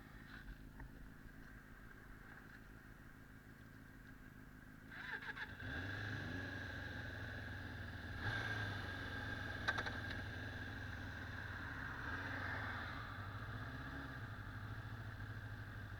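Kawasaki 400 cc motorcycle engine idling quietly, then about five seconds in a few clicks and the engine speeds up as the bike pulls away, running steadily and louder after that.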